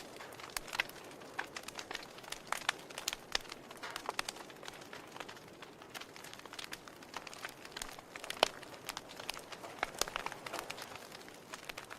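Wood fire in a fireplace crackling: irregular sharp pops and snaps over a soft steady hiss, the loudest snap about eight and a half seconds in.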